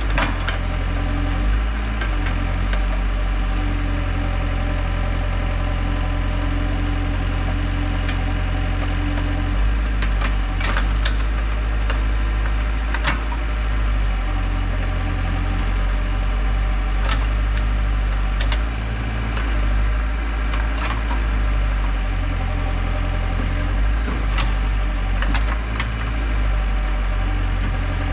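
Heavy equipment's engine running steadily under load while clearing land, its low hum shifting a few times as the revs change. Scattered sharp knocks and cracks, about a dozen, sound over it.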